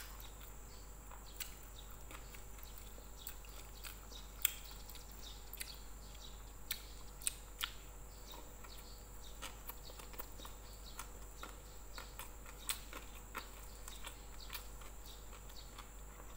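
Close-up chewing of a mouthful of rice and crispy fried salted fish, with irregular sharp mouth clicks and wet smacks.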